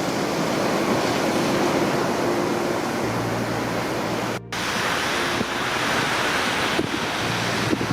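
Steady wash of sea surf and wind on the microphone, cut off for a split second about halfway through.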